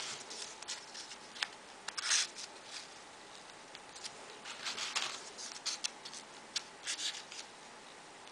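Folded paper pieces of a 3D modular origami model rustling and scraping as they are pushed into place, in short irregular bursts with small clicks, busiest about two seconds in, around five seconds and near seven seconds.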